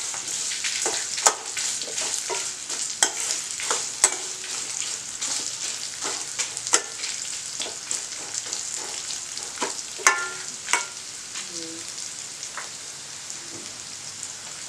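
Sliced onions, garlic and dried red chillies sizzling in oil in a stainless-steel kadai as a steel ladle stirs them, scraping and clinking against the pan. The clinks thin out near the end as the stirring stops.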